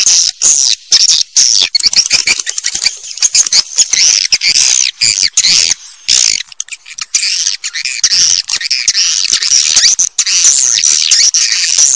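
Swiftlet calls: a dense, rapid, high-pitched twittering chatter that goes on without pause apart from brief gaps, the kind of recording played from speakers at swiftlet houses to lure the birds.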